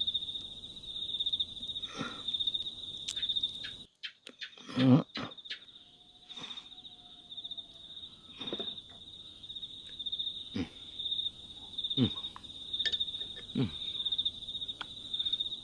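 Insects chirping in a steady, fast-pulsing high trill. Short knocks and thumps come every second or two over it, the loudest about five seconds in.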